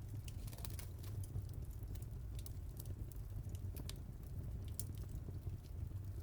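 Fireplace fire crackling: irregular sharp pops and snaps scattered over a steady low rumble of the flames.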